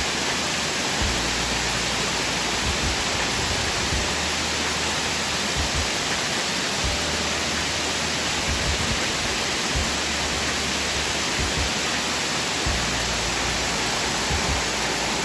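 Minnehaha Falls, a mountain waterfall, with a steady rush of falling water.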